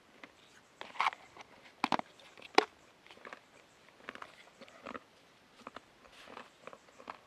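Irregular clicks and rustles of something being handled close by. The sharpest clicks come about one to two and a half seconds in.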